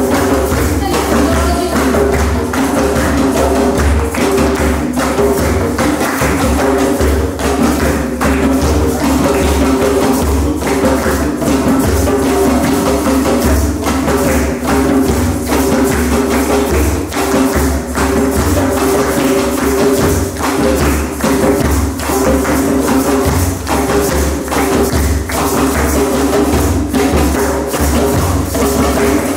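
Live instrumental music: violin holding long sustained notes over continuous struck percussion, the hits coming in a steady rapid run.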